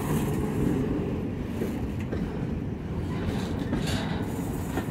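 Empty centerbeam flatcars of a freight train rolling past close by: a steady rumble of steel wheels on rail, with a few short clicks from the wheels over the track.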